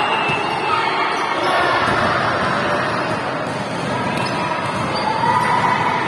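Volleyballs being struck and bouncing on a hard hall floor, amid the echoing clamour of players practising.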